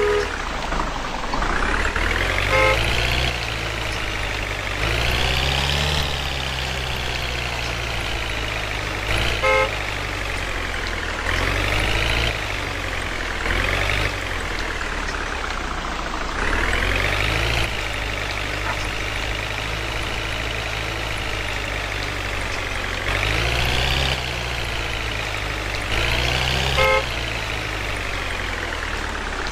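Truck engine sound, repeatedly revving up in pitch and easing back off, with three brief horn toots.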